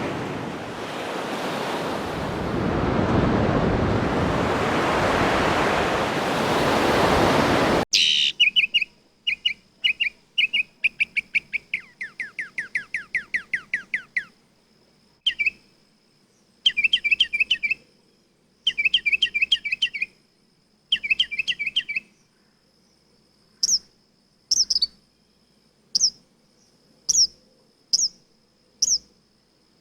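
A loud, steady rushing noise stops abruptly about eight seconds in, and songbirds singing take over. First come short rapid trilled phrases, one of them a long falling series of notes. In the last third there are sharp, high, downward-sweeping notes about once a second over a faint steady high tone.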